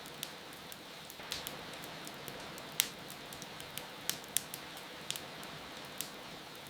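Wood fire crackling, with irregular sharp pops, the loudest about three seconds in, over a steady hiss of rain.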